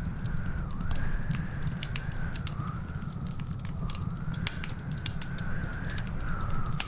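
Wood fire crackling, with frequent sharp pops and snaps over a steady low rumble of the flames; a thin whistling tone slowly rises and falls underneath.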